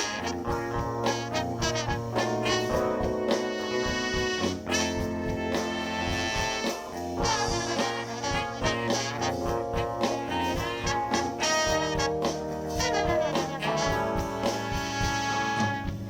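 Live band playing an instrumental horn break: trumpet, trombone and saxophone over drums, bass and keyboard, with a steady beat.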